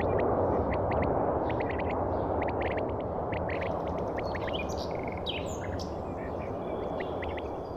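Birds chirping in many short calls over a steady low rumble that slowly fades away.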